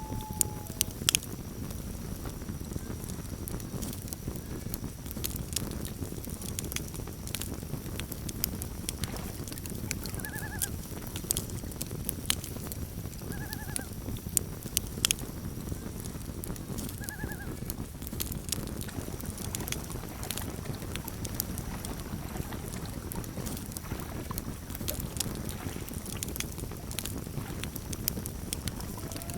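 Campfire crackling with sharp pops over a low steady rumble, and three short wavering calls from loons across the water, a few seconds apart near the middle.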